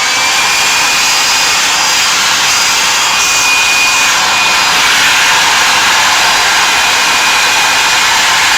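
A handheld electric blower switches on and runs steadily, giving a loud rush of air over a thin, high motor whine.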